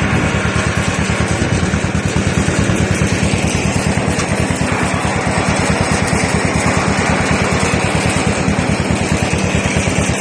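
John Deere M tractor's two-cylinder engine running steadily, its exhaust beating out an even, rapid pulse.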